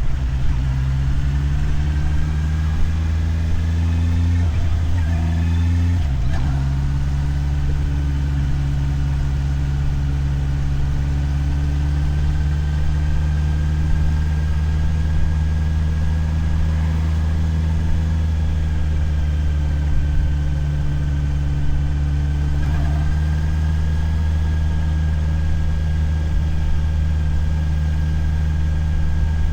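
Motorcycle engine running with a deep, steady note. Its pitch shifts and dips twice in the first six seconds, then holds flat and even for the rest.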